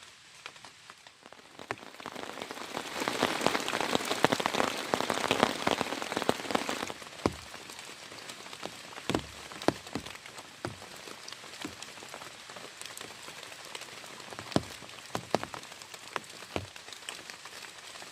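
Rain falling on a surface: a dense, heavier patter swells about two seconds in and eases off around seven seconds, leaving scattered single large drops and drips landing one by one.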